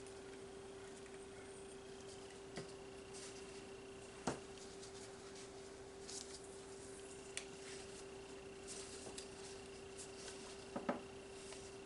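Faint, scattered clicks and light knocks of plastic paint bottles and cups being handled while acrylic paint is prepared for a flip-cup pour, the sharpest knock about four seconds in and a few quick taps near the end, over a steady low hum.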